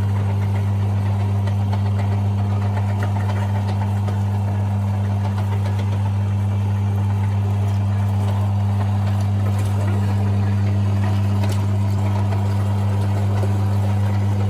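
Electric meat grinder motor running steadily with a deep, even hum.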